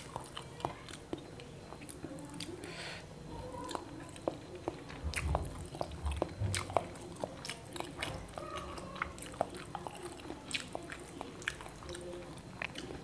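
Close-miked chewing and biting of fried egg, with frequent irregular wet mouth clicks and lip smacks. A couple of dull low thumps come in the middle.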